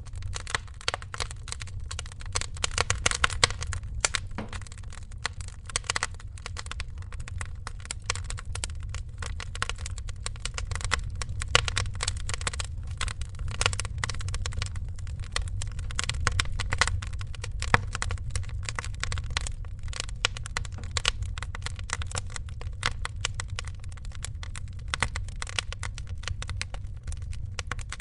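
Wood fire crackling in a fireplace: a dense, irregular run of small snaps and pops over a low steady rumble.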